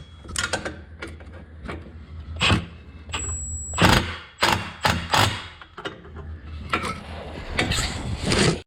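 Hand tools working the exhaust flange bolts: irregular metallic clicks, clinks and knocks of wrenches and a ratchet over a steady low hum.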